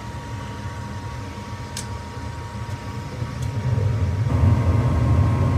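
Gas furnace start-up: a steady motor hum with a couple of faint clicks, then about four seconds in the burners light and a low rumble of flame comes up and holds. The flame staying lit shows the newly replaced flame sensor is proving the flame.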